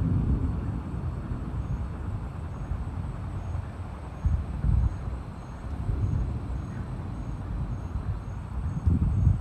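Tropical storm wind gusting on the microphone: a low rumble that swells several times. A faint high chirping repeats about twice a second behind it.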